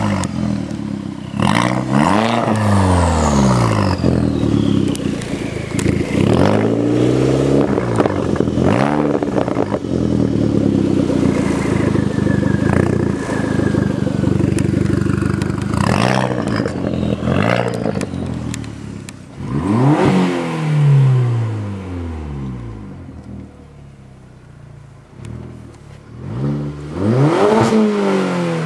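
Turbocharged 1.8-litre four-cylinder engine of a VW GTI with a catless 3-inch turboback exhaust, revved again and again, the pitch climbing and falling in repeated sweeps. It drops to a quieter low running about three quarters through, then rises in another rev near the end.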